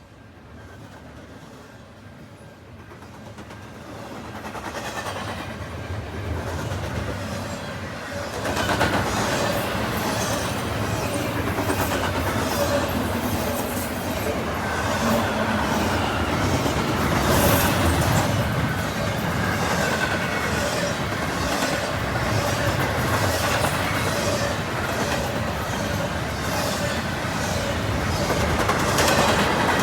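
A train approaching and passing: its rumble grows over the first eight seconds, then the cars roll by with a steady, regular clicking of wheels over the rail joints.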